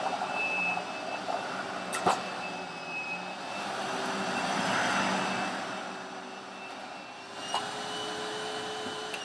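Hoover WindTunnel self-propelled bagless upright vacuum running steadily with a high motor whine, with a sharp click about two seconds in. Near the end the motor pitch starts falling as it winds down.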